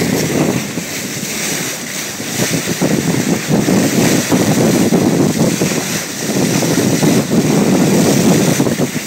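Wind buffeting the microphone over the rush of water along the hull of a boat under way, an uneven low rumble that swells and falls.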